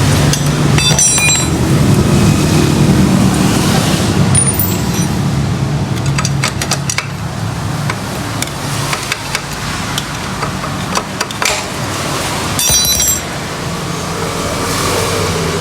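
Metal tools and small parts clinking in three short bursts, about a second in, around six to seven seconds, and near the end, over a steady low mechanical hum, as a motorcycle starter motor is being taken apart.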